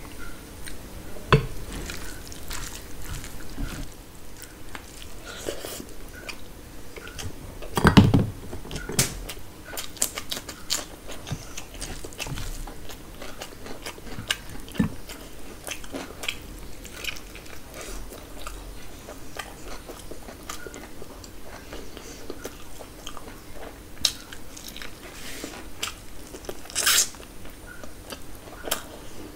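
Close-miked chewing and biting as chicken biryani and mutton are eaten by hand, with many small wet clicks throughout and a louder thud about eight seconds in.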